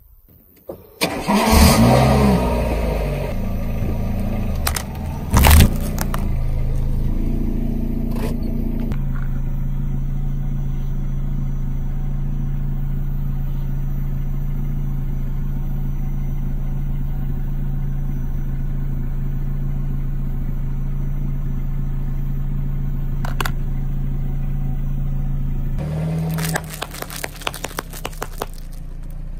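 A car engine cranking and catching about a second in, then running at a steady idle, with a sharp crack about five seconds in. Near the end, a quick run of crackles as the tyre crushes a wrapped item.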